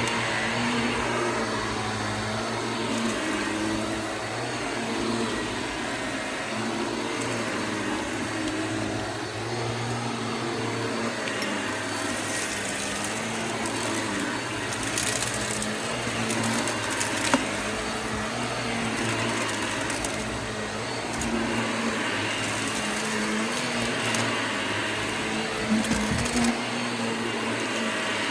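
Vacuum cleaner running steadily on a carpet, its motor humming under the rush of suction. Several short bursts of crunchy crackling come through as debris is sucked up.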